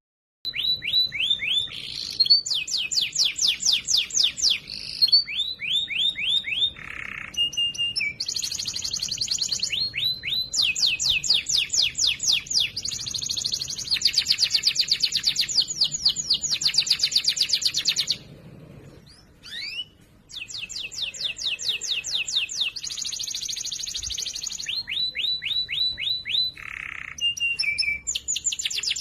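Domestic canary singing: long rolls of rapid repeated high notes, one roll giving way to another with a different note pattern, with a pause of about two seconds just past the middle.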